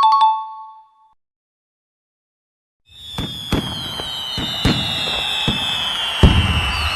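A short bell-like ding that fades within a second, then after a pause a long, slowly falling high whistle with scattered sharp pops and cracks.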